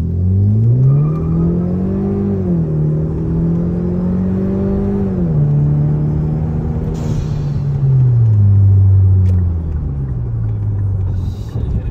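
Turbocharged car engine pulling through the gears. The engine note climbs, drops at upshifts about two and a half and five seconds in, then falls away as the revs come down and starts to climb again near the end. A short hiss comes about seven seconds in.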